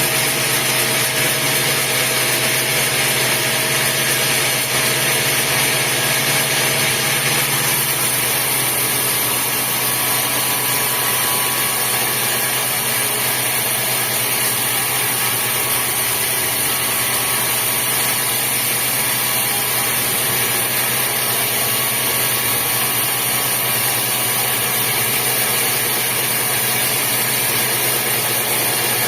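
Sawmill machinery running steadily: a continuous motor drone with a hiss over it, even in level throughout.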